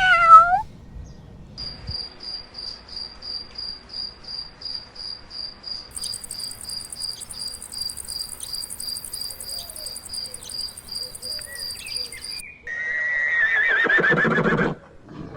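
A cat's short falling meow at the start, then crickets chirping steadily, about two and a half chirps a second, with a higher insect buzz joining about six seconds in. Near the end a horse gives a loud, wavering whinny lasting about two seconds.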